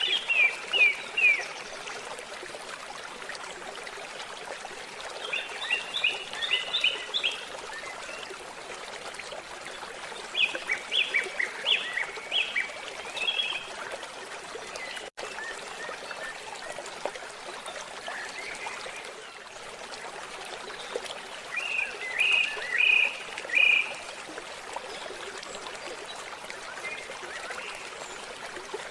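A forest stream babbling steadily, with a bird calling over it in four short bursts of quick, falling notes.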